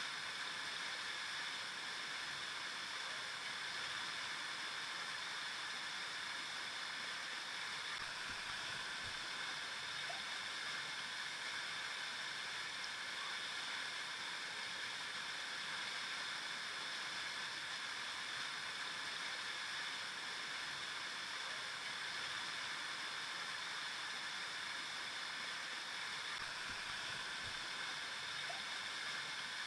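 A river flowing: a steady, unbroken rush of running water.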